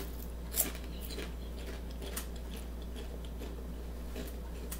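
Close-up chewing of a crunchy chip: a few short crunches spread through, the loudest about half a second in, over a steady low hum.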